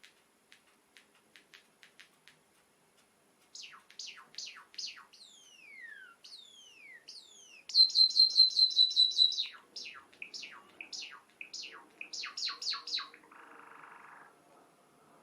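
Java sparrow singing: soft ticking notes build into downward-sliding whistled notes, then a fast, loud trill of about ten notes around the middle, followed by more falling notes.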